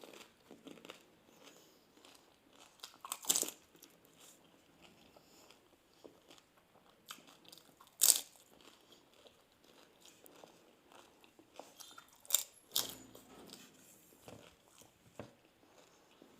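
Crisp puri shells of doi fuchka crunching as they are bitten, with quieter chewing between. Three sharp crunches come about four to five seconds apart.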